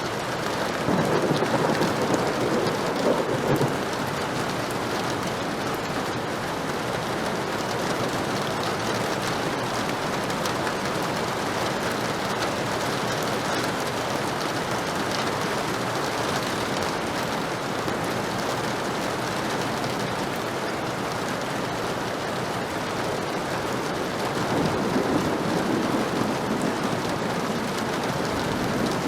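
Heavy rain falling steadily, with two low rolls of thunder, one about a second in and another near the end.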